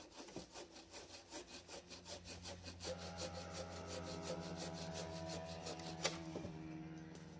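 Buck saw cutting through wood with quick, even strokes, several a second, stopping about six seconds in with a sharp click.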